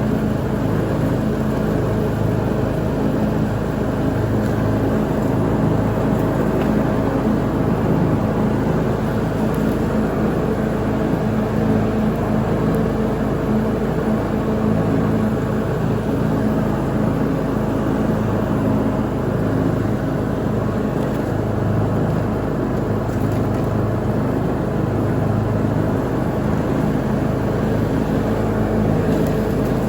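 Lawn mower engine running steadily at constant speed while mowing.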